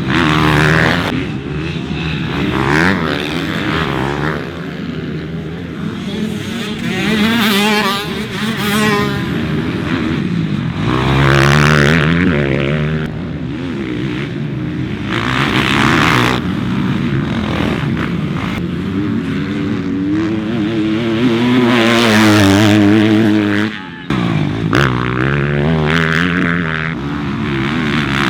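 Several motocross bikes on track, engines revving hard and easing off as they run through the gears. The pitch rises and falls as each bike passes, with loud swells every few seconds and a brief dip about 24 seconds in.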